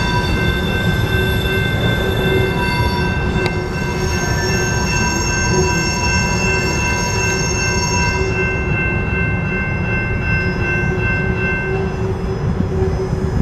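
Freight train of covered hopper cars rolling past, with a constant low rumble and steady high-pitched wheel squeal in several tones. The squeal fades out near the end as the last cars go by.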